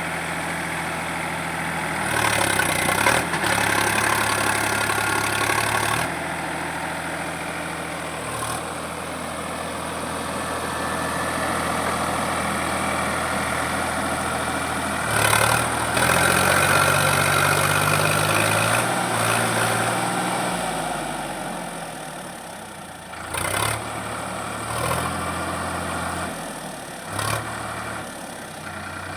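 Sonalika 745 DI tractor's diesel engine running under load while pulling a trolley loaded with crushed stone. The engine note shifts up and down, getting louder about two seconds in and again about halfway through.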